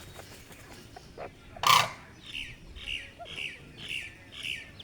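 Grey francolin calling: a brief, loud, harsh burst about a second and a half in, then a run of five short, falling high calls about half a second apart.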